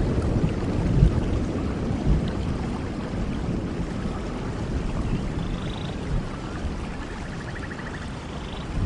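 Steady rush of falling water from a waterfall, heaviest in the low range with an uneven rumble, and a few faint high chirps in the second half.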